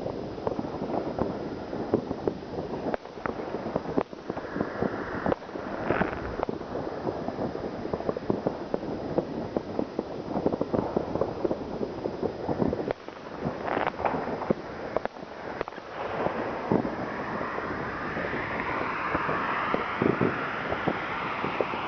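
New Year's Eve fireworks: dense crackling with many sharp bangs going off in quick succession. In the second half a rising whistling tone joins in under the bangs.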